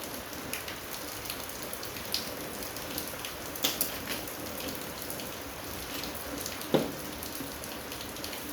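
Steady patter like rain, dotted with small light clicks, with a sharper knock about seven seconds in.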